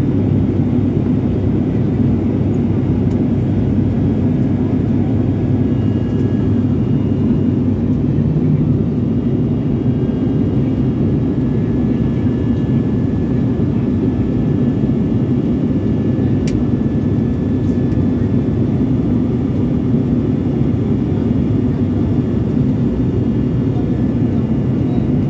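Airliner cabin noise in flight: a steady, unbroken low rumble of engines and airflow.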